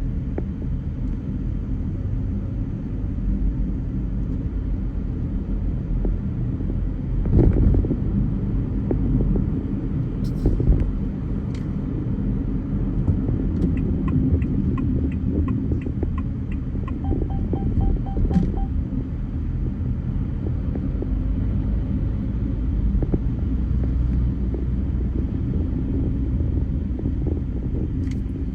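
Car driving in traffic: steady low engine and road rumble. Midway there is a short run of regular clicks, about three a second, with a few separate clicks and a brief pulsing tone around them.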